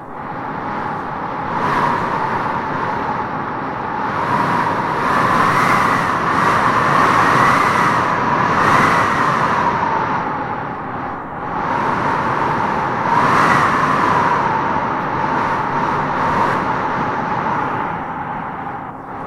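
Howling wind gusting through trees: a steady rush with a whistling howl that swells in gusts, strongest from about five to nine seconds in and again around thirteen seconds.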